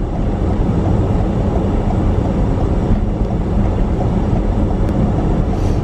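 Steady low rumble of road and engine noise inside a moving car, its tyres running over an icy, snow-covered road.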